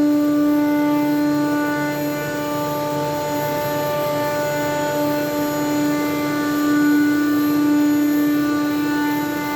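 ShopSabre CNC router's spindle running with its bit cutting a King StarBoard plastic sheet: a steady whine with several overtones.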